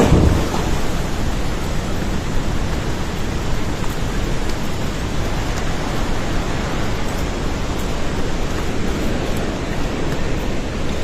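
A river in flood rushing past: a loud, steady noise of fast water.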